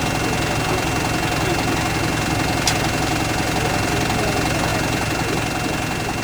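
Diesel engine of a lorry-mounted crane running steadily at idle, with a constant high whine over the low throb. A single sharp click comes about two and a half seconds in.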